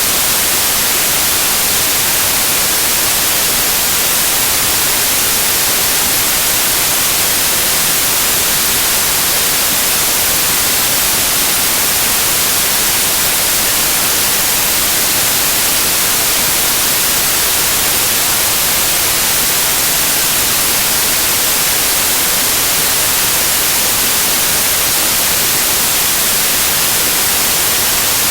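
Loud, steady white noise: an even hiss across the whole range, unchanging throughout.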